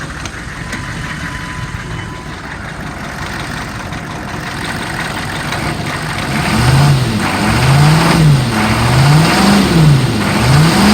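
A 2002 Chevy 3500's 6.5-litre diesel V8 idles steadily. About halfway through it is blipped up and down in a run of short revs, roughly one a second, revving up cleanly.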